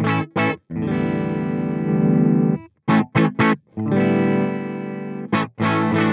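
Electric guitar with humbucker pickups played through a Peace Hill FX TR tube preamp: short, choked chord stabs alternating with two chords held for about two seconds and a second and a half.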